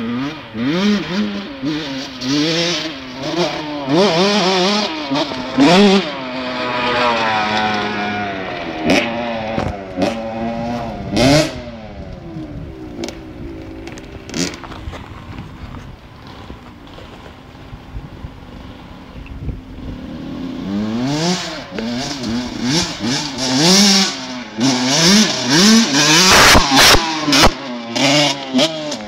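Motocross bike engines revving up and down repeatedly as the bikes ride, with shifts between throttle bursts; loud in the first dozen seconds, quieter for a stretch, then loud again near the end with a few sharp noisy bursts.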